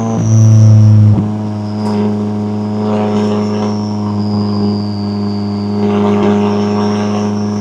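McLaren 570S's twin-turbo V8 running at a steady engine speed, louder for about the first second and then dropping back sharply, with a faint high whine drifting slowly down in pitch.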